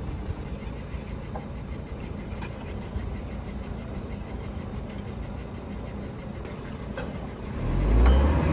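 Heavy engine running steadily with a low drone, which grows much louder and fuller near the end.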